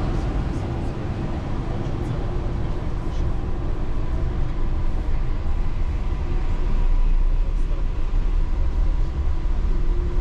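Yurikamome rubber-tyred automated train running along its elevated guideway, heard from inside the cabin: a steady low rumble from the tyres and running gear with a faint steady motor whine.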